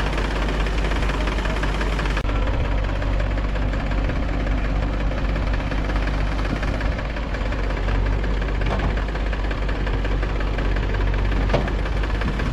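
Diesel engine of a JCB 3DX backhoe loader running steadily, with two light knocks in the second half.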